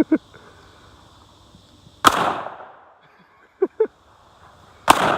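Two rifle shots about three seconds apart, each a sharp crack with a short echoing tail.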